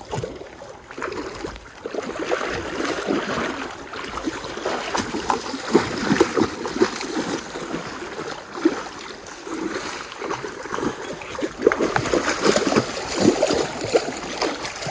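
Shallow stream water sloshing and splashing in an uneven run of short, sharp splashes.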